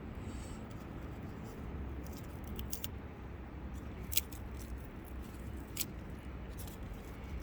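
Wood fire burning in a small camp stove, giving about six sharp, irregular crackles and pops over a low steady rumble.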